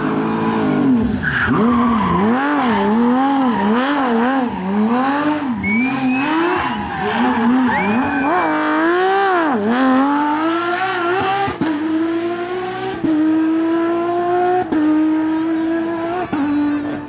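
Porsche 997 GT3's naturally aspirated flat-six engine driven hard: the engine note swoops up and down through quick throttle changes for about ten seconds, with a high tyre squeal partway through. In the second half it rises through several upshifts in a row, each ending in a sudden drop in pitch.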